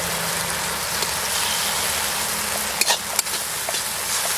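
Chopped mushrooms and onion with dried red chillies sizzling in hot oil in a wok, with a few clicks and scrapes of a metal spatula about three seconds in.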